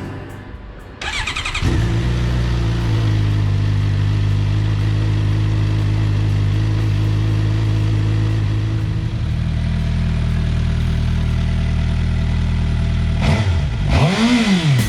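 2016 Suzuki GSX-R750's inline-four engine catching about a second in, then idling steadily. Near the end the throttle is blipped, and the engine note rises and falls.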